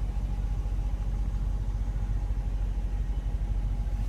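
Dodge Challenger R/T's Hemi V8 idling, heard as a steady low rumble with a faint steady hum above it.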